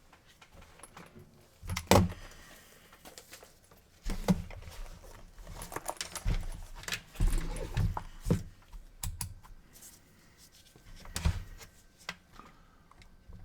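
Irregular clicks, taps and light knocks of tools and parts being handled on a workbench, with the loudest knock about two seconds in and a busy run of clicks in the middle.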